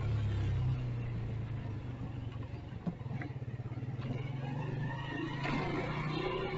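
Motorcycle engine running at low road speed with a steady low drone, strongest for the first second and then easing slightly.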